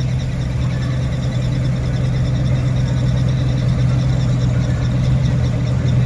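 Vehicle engine running at a steady idle, a constant low hum that does not rise or fall.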